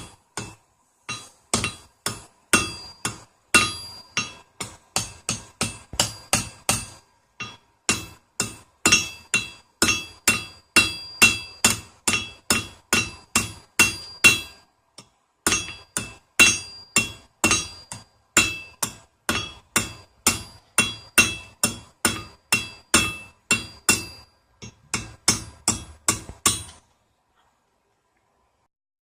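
Blacksmith's hand hammer striking hot square steel stock on an anvil, about three ringing blows a second, while tapering the bar to a point. The hammering pauses briefly twice and stops shortly before the end.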